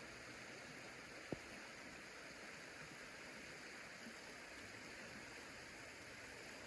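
Faint, steady hiss of background noise, with a single short click about a second in.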